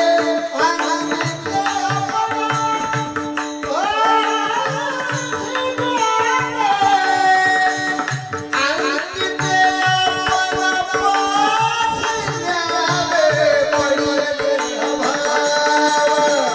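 A male singer holding long, high, ornamented notes in a Marathi devotional song, over a steady drone, a regular hand-drum beat and jingling small percussion.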